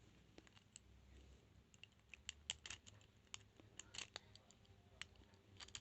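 Faint, irregular clicks and small scrapes of lock picks and a tension wrench working inside a transparent practice padlock, strongest about two and a half and four seconds in.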